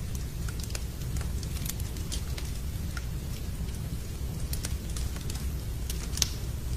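Wood fire crackling in a fireplace, with sharp pops scattered irregularly and one louder pop about six seconds in, over a steady hiss of rain and a low rumble.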